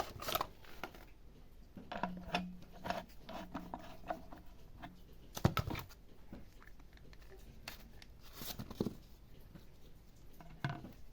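Irregular clicks, knocks and scrapes of small metal parts and hand tools being handled, with a louder cluster about five and a half seconds in.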